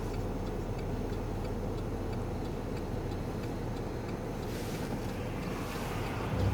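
Car engine running steadily, a low rumble with a faint regular ticking over it.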